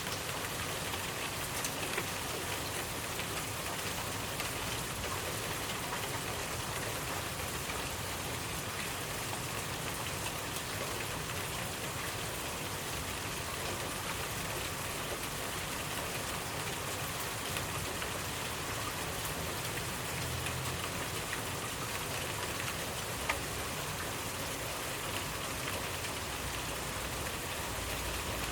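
Steady rainfall with individual drops pattering on a surface, and a single sharper drop click near the end.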